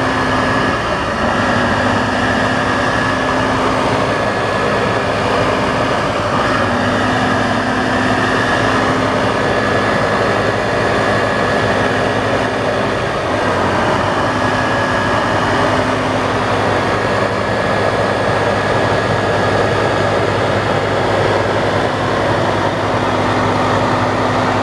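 Heavy off-road truck engine running steadily, with a steady high whine over the engine noise that drops out briefly a few times.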